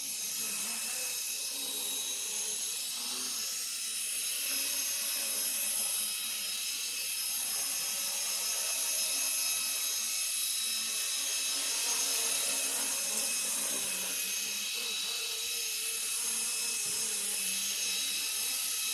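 Custom micro RC helicopter in flight: its small motors and rotors give a steady high-pitched whine, with a lower tone that wavers slightly up and down as the throttle and tail are corrected.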